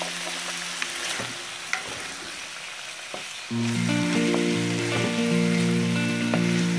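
Raw chicken pieces and diced red onion sizzling in a frying pan, stirred with a wooden spatula that gives small clicks and scrapes. About halfway through, background music with long held notes comes in over it.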